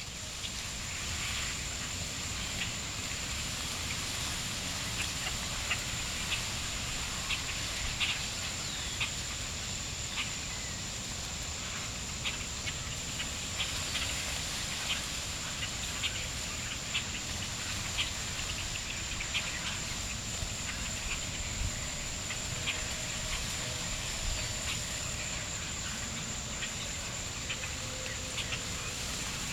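Birds chirping in many short, scattered notes, with some fluttering, over steady background noise and a constant high-pitched whine.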